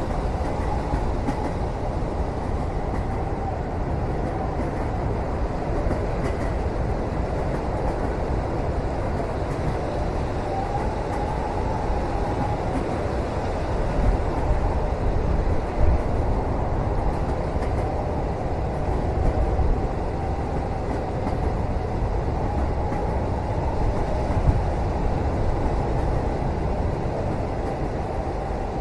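Passenger train running, heard from inside a sleeper cabin: a steady low rumble with a faint wavering whine above it and a few light knocks.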